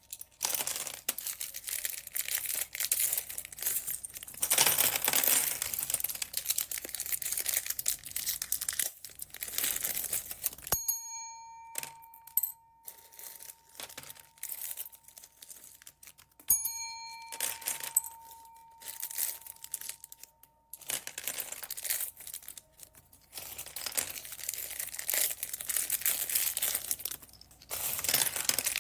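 Plastic bead bags crinkling and rustling as they are handled. Partway through the rustling stops, and two bell-like chimes ring out about five seconds apart, their ring lasting several seconds.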